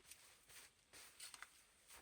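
Faint crunching footsteps in snow, about two steps a second.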